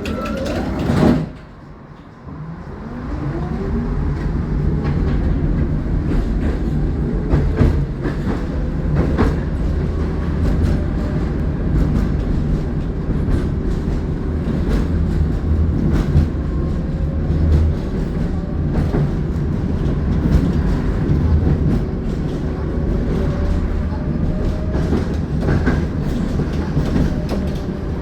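Tatra T6B5SU tram heard from inside. Two loud knocks come in the first second, then the tram pulls away with a traction-motor whine rising in pitch. It settles into steady running over the rails, with scattered clicks and clacks from the wheels over rail joints.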